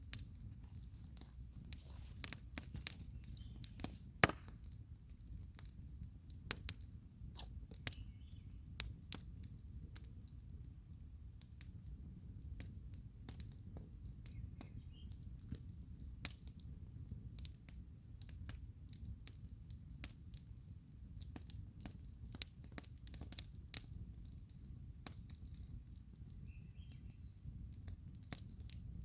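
Campfire crackling: irregular sharp pops and snaps over a steady low rumble, with one loud pop about four seconds in.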